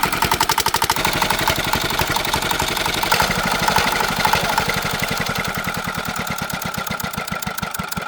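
Rebuilt tractor engine, fitted with new piston rings and connecting-rod bearings, running with a steady beat of firing pulses with no exhaust pipe fitted; it runs well after the repair. The beat slows slightly near the end.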